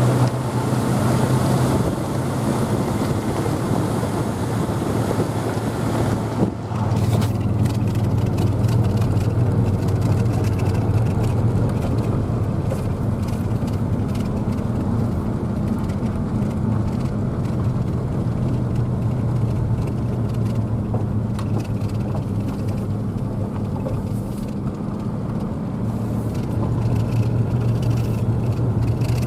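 A motor vehicle driving at a steady pace: a constant engine hum with road and wind noise, briefly dipping about six seconds in.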